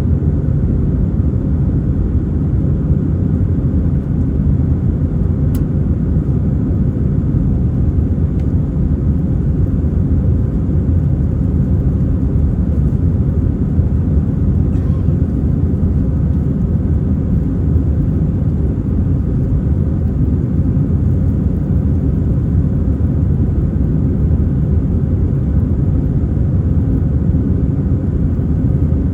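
Steady low rumble of an Airbus A320 in flight, engines and airflow heard from inside the cabin, holding an even level throughout.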